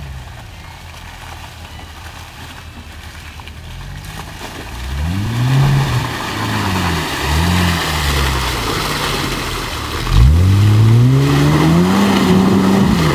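Toyota Land Cruiser engine revving hard under load as the four-wheel drive pushes through deep mud. It is quieter for the first few seconds. From about five seconds in, the revs rise and fall several times, then climb sharply about ten seconds in and stay high.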